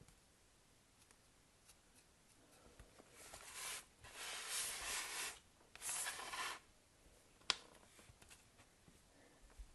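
Soap packaging being opened by hand: three bouts of rustling and crinkling a few seconds in, then a single sharp click.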